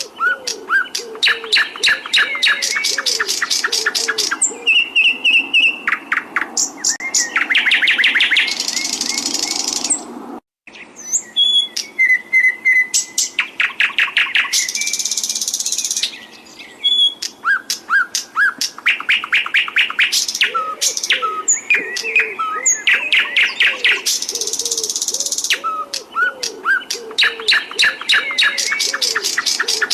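Cage songbirds singing loud, fast trills and chirps on a repeating bird-song tutoring track, with a brief cut to silence about a third of the way in.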